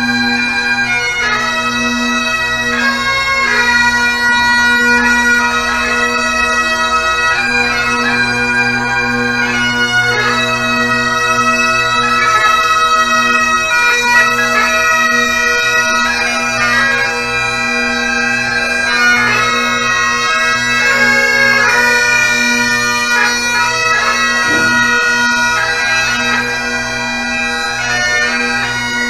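Bagpipes playing a tune: a chanter melody over steady, unbroken drones.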